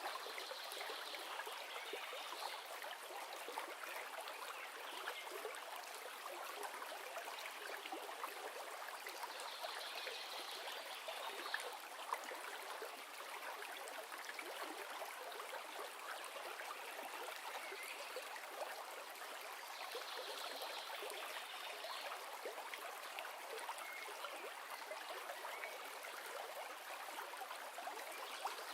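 A river or stream running steadily over rocks: an even rushing of water dotted with many small splashes and trickles.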